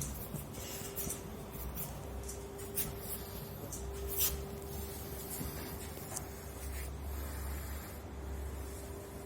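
Light rubbing and scraping with scattered sharp clicks, typical of hand work on a conveyor belt during a repair, over a steady low machine hum with a constant tone.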